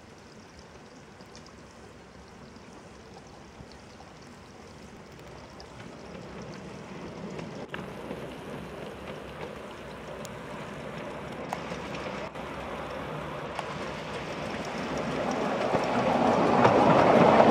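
A 7¼ in gauge miniature steam locomotive approaching on its track, its noise growing steadily louder, with a few faint clicks along the way.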